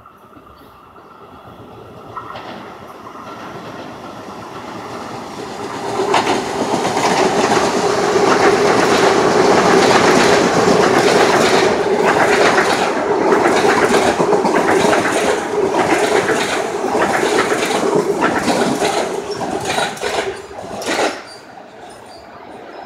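A train passes close by at speed: a build-up, then the loud rumble of the cars with wheels clattering over rail joints and a steady hum, cutting off sharply about 21 seconds in as the last car goes by.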